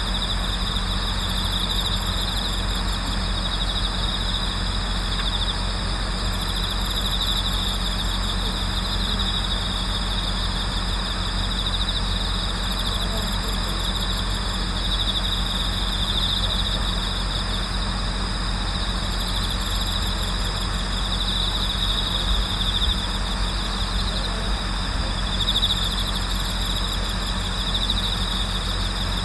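A night chorus of autumn crickets singing continuously. One steady pulsing trill is the loudest part, and a higher trill comes and goes every few seconds. A steady low hum runs underneath.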